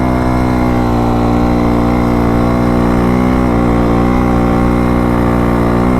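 Dirt bike engine running at a steady speed while being ridden, its pitch holding nearly constant with slight wobbles.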